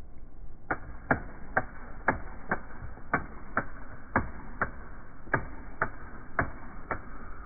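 Wind-up toy chick walking, its clockwork mechanism clicking in an even rhythm of about two clicks a second, starting just under a second in.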